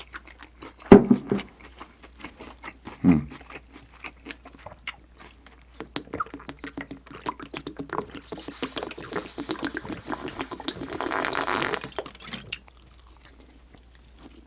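Close-up eating sounds: small wet clicks and smacks of chewing. From about eight seconds in comes a hiss of liquid being poured, rising for a few seconds and stopping about twelve and a half seconds in.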